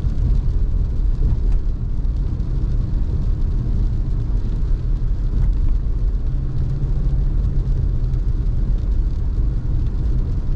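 Car driving on a road, heard from inside the cabin: a steady low rumble of engine and tyre noise, with a steadier hum coming in from about six to eight seconds in.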